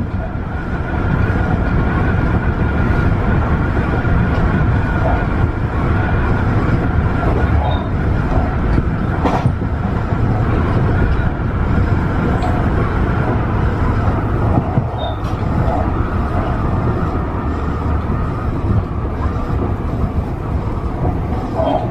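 Tobu 50090 series electric train running at speed, heard from inside the leading car: a steady rumble of wheels on rail with a steady motor whine above it and an occasional faint click.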